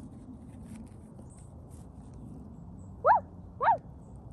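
A puppy whimpering in distress: two short, high yelping whines about three seconds in, each rising sharply and then falling in pitch.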